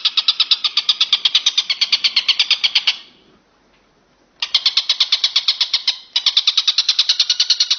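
Walang kecek bush cricket stridulating in a rapid, even pulsed trill of about twelve high chirps a second. It stops about three seconds in for over a second, starts again, and falters briefly near six seconds.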